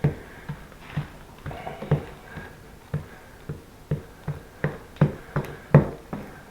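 Rhythmic taps and knocks, about two a second, of a spreader working Bondo body filler as it is mixed in place on a fiberglass shower base, with a few quicker strokes near the end.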